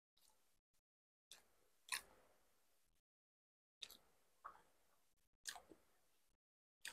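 Close-up chewing of a soft, sticky glutinous rice cake (bánh ít lá gai): about six separate wet smacks and mouth clicks, the loudest about two seconds in.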